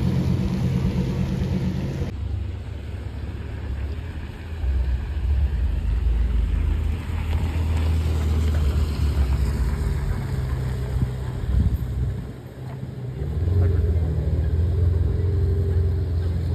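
A Lamborghini Huracán Performante's V10 running as the car pulls away, then after a cut a Ferrari 488 Spider's twin-turbo V8 running and driving off, its engine note rising twice.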